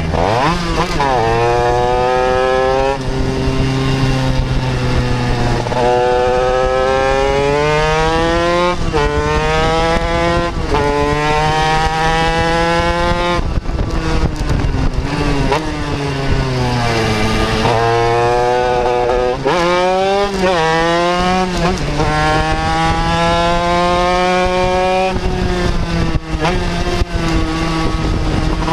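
Racing motorcycle engine heard onboard at full lap pace, revving up through the gears with a drop in pitch at each upshift, then falling away as the rider shuts off for corners around halfway and again near the end, before accelerating again.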